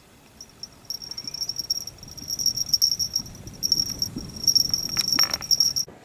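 An insect chirping close by: a high, rapidly pulsing trill in repeated bursts, which cuts off suddenly near the end.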